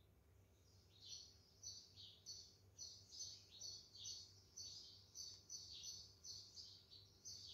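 Small birds chirping faintly in a quick repeating series, about two to three short high chirps a second, picking up about a second in, over a faint low hum.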